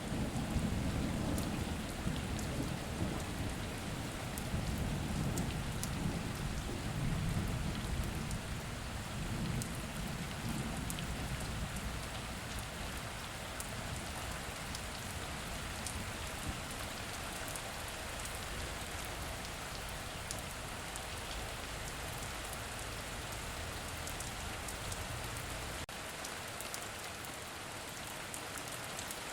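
Heavy rain falling steadily, with sharp drop ticks through it. A low rumble of thunder in the first half fades away.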